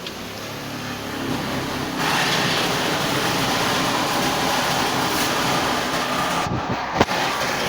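Toyota 1NZ-FE 1.5-litre four-cylinder engine running on a test in the car, getting louder about two seconds in and holding steady, with a sharp click near the end.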